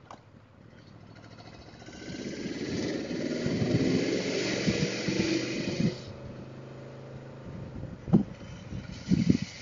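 Yamaha Vmax motorcycle engine pulling away and accelerating, with wind and road noise, loudest for a few seconds under an overpass, then easing back. Two short low thumps near the end.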